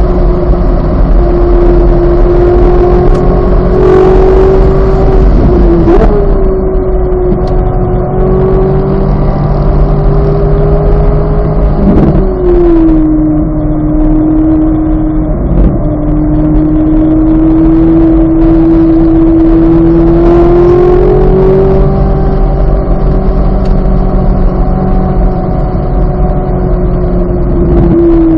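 2023 Corvette Z06's flat-plane-crank V8 running hard at high revs, its pitch held steady, dropping sharply about twelve seconds in with a gear change, then slowly climbing again under power before another drop at the end.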